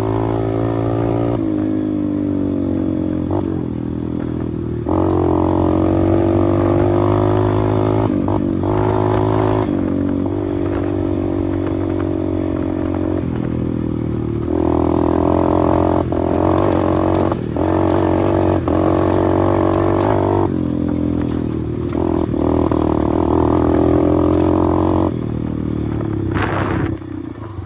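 A 125 cc pit bike engine running while it is ridden, holding a steady note. Its loudness steps up and down several times as the throttle is opened and eased off, and it drops away near the end.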